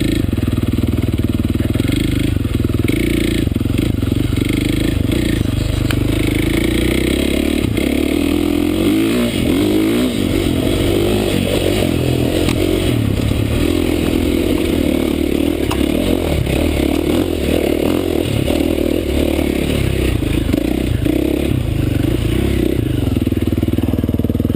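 Dirt bike engine running under load, its pitch rising and falling as the rider works the throttle and gears along the trail.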